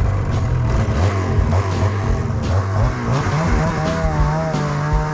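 Snowmobile engine running, rising in pitch about three seconds in as it speeds up. Music comes in near the end.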